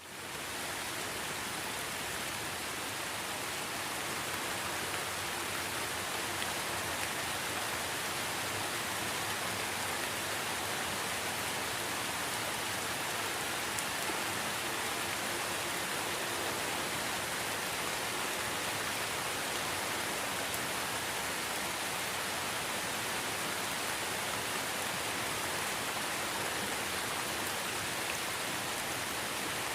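Steady rain falling, an even hiss of many drops with no thunder, fading in at the very start.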